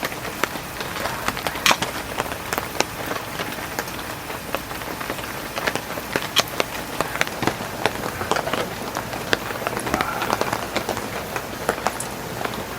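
Heavy rain falling steadily on a tent, with many sharp drop hits landing at irregular moments.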